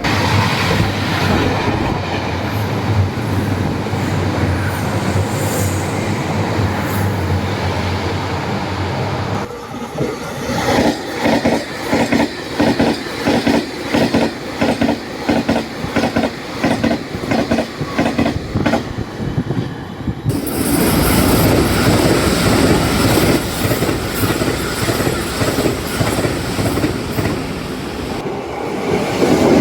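Taiwan Railway trains passing at speed over jointed track, the wheels clicking as they cross the fishplated rail joints. Three separate passes follow one another, cut abruptly about a third and two thirds of the way in. The middle pass has a sharp, regular clickety-clack of about two clicks a second.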